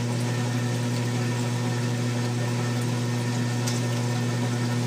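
Steady low machine hum, one low tone with a fainter one above it, unchanging throughout.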